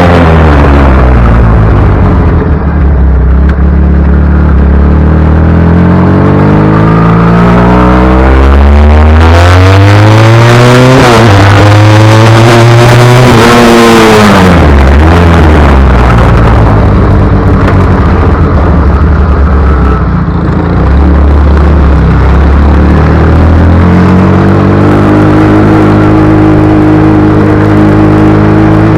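Loud motorcycle engine running, its pitch climbing and dropping several times as it revs up and eases off.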